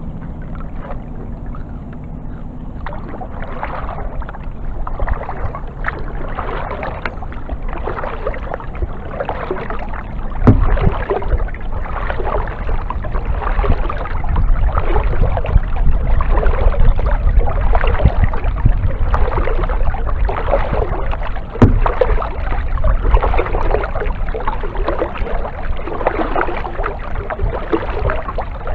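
Kayak paddle strokes: water splashing and dripping in a steady rhythm, a stroke every second or two, over a low rumble. Two sharp knocks stand out, about a third of the way in and again about three quarters of the way in.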